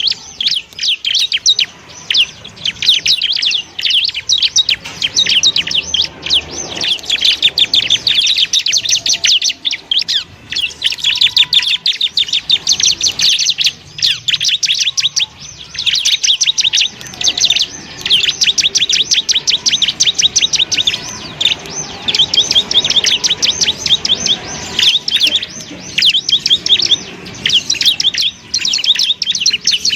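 Bar-winged prinia (ciblek) singing a long, fast run of high chattering notes, broken only by a few brief pauses. This is the continuous 'ngebren' style of song used as a tutor recording.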